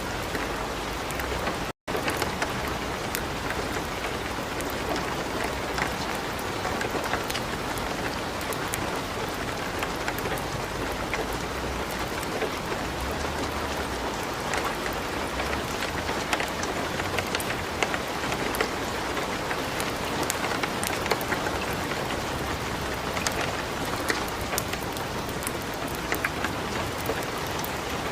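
Steady light rain mixed with a wood fire crackling in a fireplace, with many small sharp crackles and ticks scattered over the even rain hiss. The sound cuts out for a split second just under two seconds in.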